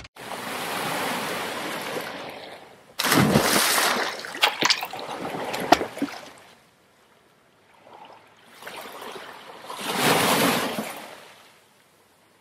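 Sea water washing and splashing in three surges a few seconds apart, with a few sharp knocks during the middle surge.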